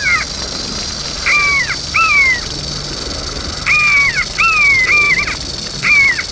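A bird calling repeatedly: about eight short, falling, caw-like calls in groups of one to three, over a steady high hiss.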